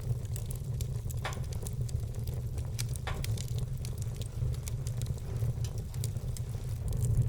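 Wood fire burning in a fireplace: a steady low rumble with frequent small, sharp crackles and pops, two of them louder, about one and three seconds in.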